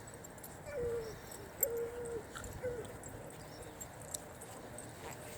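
Three low calls from an animal, each on one pitch, the first dipping slightly and the second the longest, over faint scattered high clicks.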